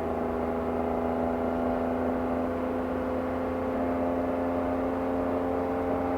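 Porsche 718 Cayman GT4 RS's naturally aspirated flat-six engine and exhaust pulling steadily while driving, its note creeping slowly higher in pitch.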